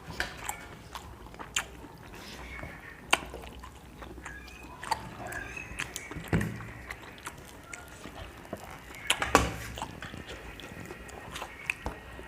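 Eating sounds at a meal: scattered clicks and smacks of chewing and of fingers and utensils on plates, with a few louder knocks around three, six and nine seconds in.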